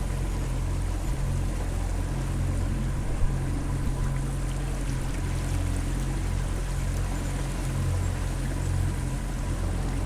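Small boat's motor running steadily with a low hum as it pushes upstream, with water rushing along the hull.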